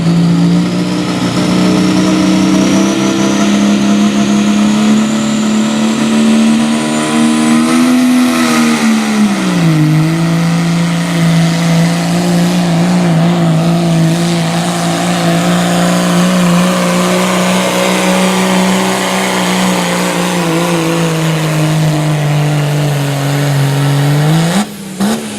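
Modified diesel pickup truck pulling a sled at full load, its engine held at high revs with a high whistle rising in pitch over the first several seconds. The engine note dips about ten seconds in, holds steady, then rises sharply just before it cuts off near the end of the pull.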